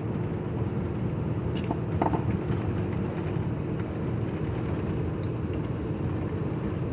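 Steady low rumble of a truck's engine and road noise heard inside the cab while driving, with a few light clicks and rattles.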